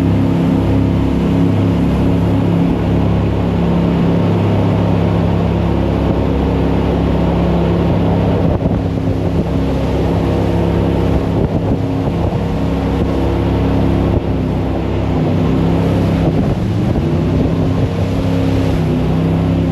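Jet boat engine running at speed, a steady loud drone over rushing wind and water; near the end the engine note drops and climbs back.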